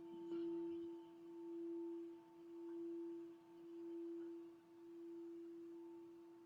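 Hand-held crystal singing bowl played in circles, sounding one steady pure tone that swells and fades in slow waves about once a second, then dies away near the end.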